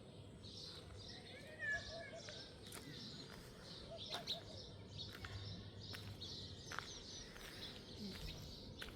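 Faint outdoor ambience of small birds chirping and calling, with a few sharp clicks or taps, the loudest about two seconds in.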